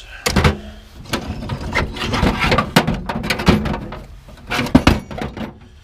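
Scrap metal pieces clattering and clinking as they are rummaged through and tossed about in a bin, with a string of sharp knocks, the loudest about a second before the end.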